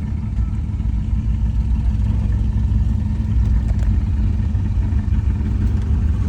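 Car engine idling with a steady, deep, lumpy rumble.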